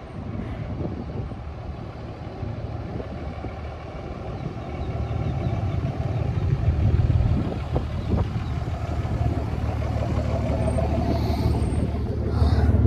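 Motor vehicle running, a low rumble that grows louder about halfway through.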